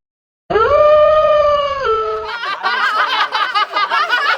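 A single wolf-like howl that rises, holds for about a second and a half and drops at the end, followed by several people chattering and laughing.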